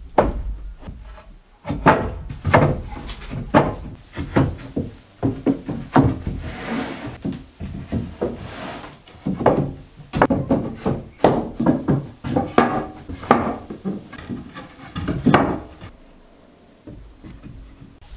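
Irregular wooden knocks and thuds with some scraping and rubbing: timber being handled and worked by hand.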